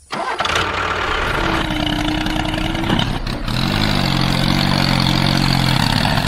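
Miniature model tractor running with a steady engine-like drone. A short steady whine comes in about a second and a half in, and about four seconds in a hum rises slightly and then holds until near the end.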